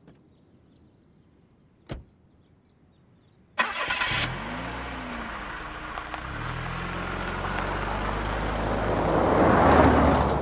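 A single sharp knock, then a Tata SUV's engine starts suddenly with a brief rev and settles. It then runs up steadily as the vehicle pulls away over a dirt road, with tyre and gravel noise growing loudest near the end.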